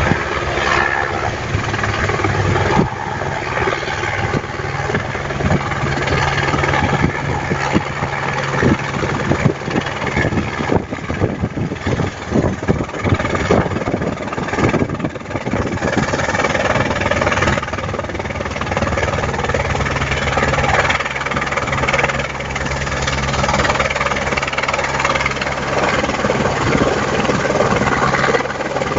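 Firefighting helicopter running steadily overhead: a continuous drone from its rotors and engine with a fast, even beating.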